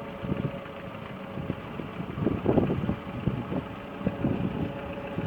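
Vintage farm tractor engine running steadily, with uneven swells in loudness.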